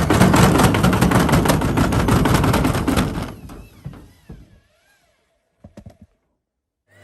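Candy SmartPro washing machine banging and rattling hard and fast as it spins an unbalanced load of heavy wet towels, the machine jumping on the floor. The banging dies away after about three seconds, leaving near silence broken by a few small clicks.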